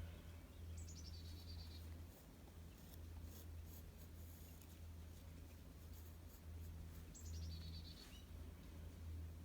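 A small backyard songbird calls twice, each call a quick run of notes falling in pitch, about a second in and again near the end. Between the calls a pencil scratches faintly on paper over a steady low hum.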